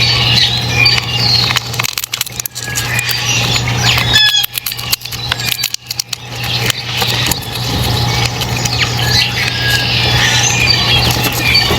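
A flock of small birds chirping and calling over one another, with a steady low hum underneath. The chorus thins out twice, briefly about two seconds in and for longer around the middle, with a few clicks where it drops.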